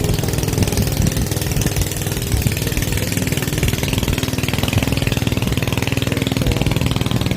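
Small boat engine running steadily at a constant speed, with a rapid, even chugging.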